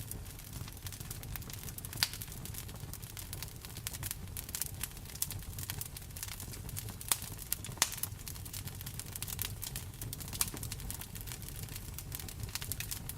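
Wood fire in a fireplace crackling steadily with dense small snaps and a few louder pops, over a steady low rumble and the hiss of rain.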